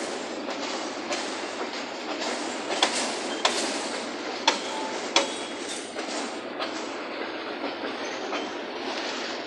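Freight train of hopper cars and boxcars rolling past: a steady noise of wheels on rail, broken by sharp clicks at uneven intervals as the wheels cross rail joints.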